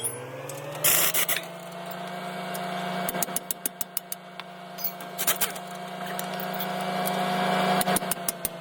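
A motor hum that climbs in pitch, holds steady for several seconds and starts to drop near the end, with scattered sharp metallic clicks and taps. The loudest run of taps comes about a second in.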